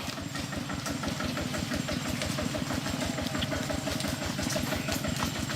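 Small boat engine running steadily, with a rapid, even putter.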